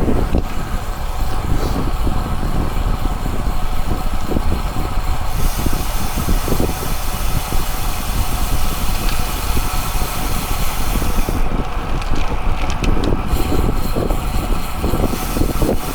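Wind rushing over the microphone on a moving bicycle. Partway through, a brighter hiss rises for several seconds and then drops away.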